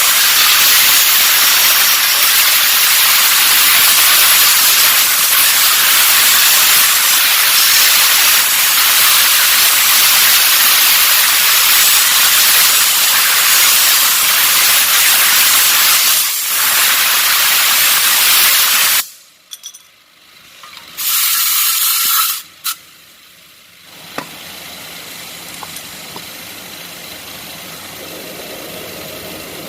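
Loud, steady hiss of a pressurized spray used for cleaning fuel injectors or a throttle body. It runs for about nineteen seconds, cuts off suddenly, then comes back in one short burst. A quieter steady sound follows from about twenty-four seconds in.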